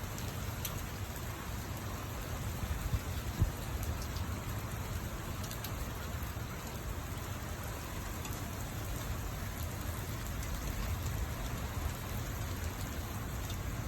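Steady rain falling, with a low rumble underneath and a single sharp tap about three and a half seconds in.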